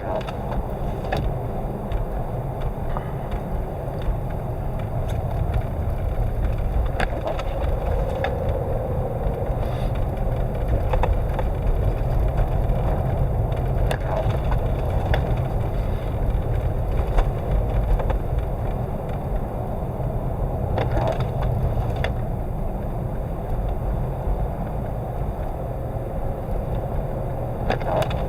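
Car cabin noise while driving through a blizzard: a steady low rumble of road and wind, with scattered sharp clicks and knocks at irregular moments.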